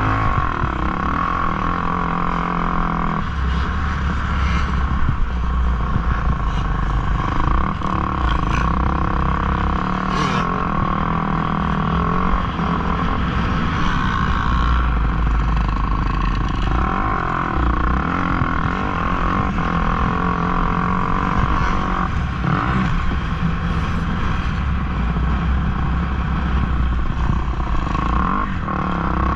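Motocross dirt bike engines running hard, the pitch rising and falling with the throttle and shifting several times.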